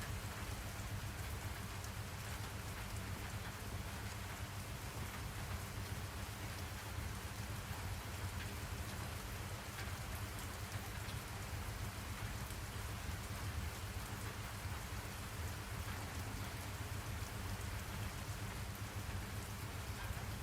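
Steady rain: an even hiss of falling rain over a constant low rumble, with no separate drops or thunderclaps standing out.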